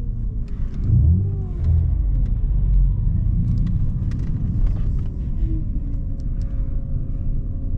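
Nissan Altima driving at speed, heard from inside the cabin: a steady low engine and road rumble. The engine note slides down and up a little in the first few seconds, then settles to a steady drone near the end.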